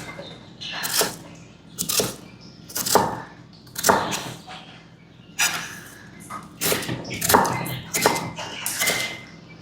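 Kitchen knife cutting raw potato into small cubes on a cutting board: a sharp, slightly scraping knock with each cut, irregular at about one a second.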